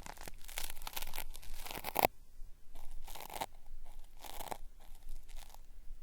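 Cotton swab rubbing in the ear of a binaural microphone, a crackly peeling, ripping sound ('beri-beri'). About five strokes with short pauses between, the first and longest lasting about two seconds.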